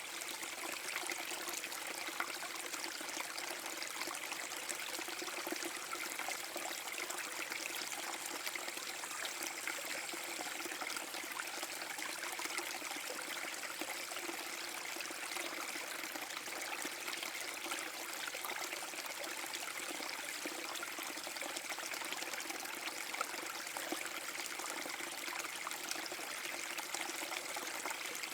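Small waterfall on a forest brook: water spilling and splashing in a steady, even rush with trickling over it.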